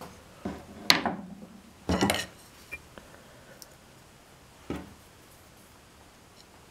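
Hard objects, such as tools, being handled and set down, knocking and clinking. There are a few short knocks, the sharpest about a second in, a cluster around two seconds, and a last one near five seconds.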